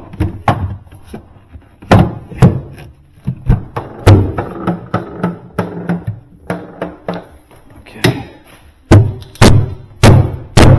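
Knocks and thunks of a part being handled and set back into a Sub-Zero refrigerator cabinet, irregular at first, then four or five hard knocks about half a second apart near the end.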